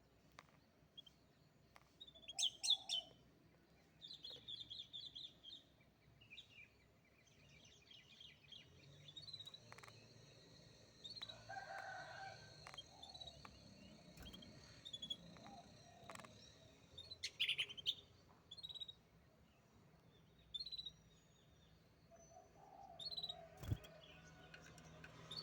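Canary singing in scattered short phrases of chirps and fast trills, with a long held high note through the middle. A single sharp click near the end.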